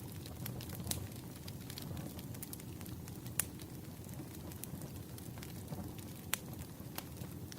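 Firewood burning and crackling: a steady low rush of flames with scattered sharp pops, the loudest about three and a half and six seconds in.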